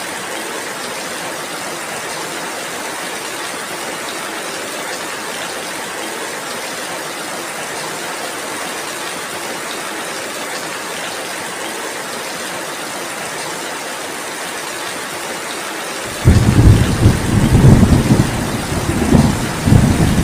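Heavy rain falling as a steady hiss; about 16 seconds in, loud, low thunder breaks in suddenly and rolls on to the end.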